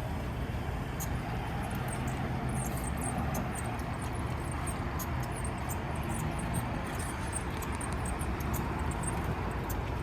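A small one-seater car being driven: a steady low rumble with road noise, unchanged throughout.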